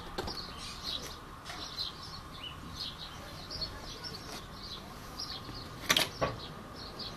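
Small birds chirping over and over, short high calls throughout, with two sharp knocks close together about six seconds in.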